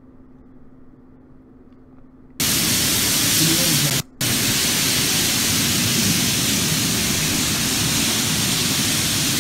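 Faint hum, then about two and a half seconds in a loud, steady rushing of floodwater from melted hail pouring down a street cuts in. It breaks off briefly about a second and a half later and then carries on.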